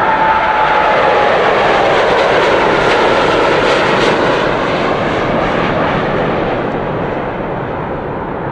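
Jet airliner's engines passing close by: a loud rushing roar with a whine that dips slightly in pitch in the first second, then slowly fading as the plane moves away.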